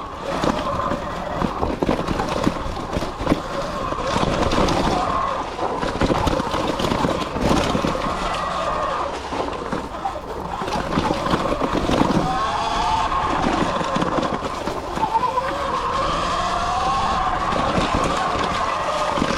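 Sur Ron X electric dirt bike's motor whining and rising and falling in pitch as the throttle opens and closes. Under it runs a steady rush of riding noise, with frequent knocks and rattles as the bike crosses rough single track.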